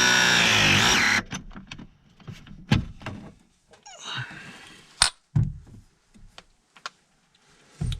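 A small power tool's motor running with a steady whine, cutting off suddenly about a second in, then scattered clicks and knocks of tools and parts being handled.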